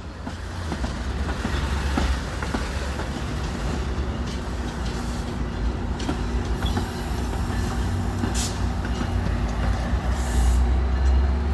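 Metra commuter train running on the rails: a steady low rumble with a few wheel clicks in the first seconds and a faint steady hum joining about halfway through.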